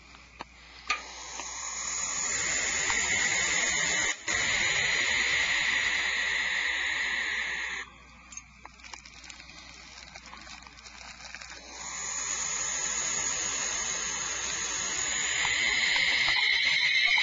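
Barn owls hissing in the nest box: two long, raspy hisses of about six seconds each, separated by a short pause. This is the defensive hiss of barn owls disturbed by a person at the box.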